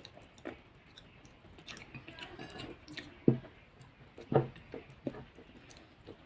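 Close-up chewing of taro root curry and rice, with wet mouth sounds and scattered short clicks; two sharper knocks stand out about three and four seconds in.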